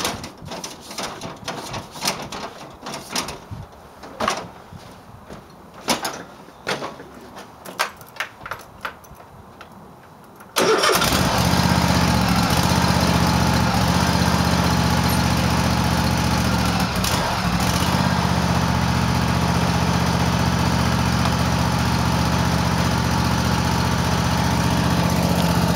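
Cub Cadet lawn tractor's twin-cylinder engine on a cold start. Scattered clicks and knocks come first; about ten seconds in the engine catches at once and then runs steadily and smoothly, with new ignition coils, spark plugs and air filter fitted.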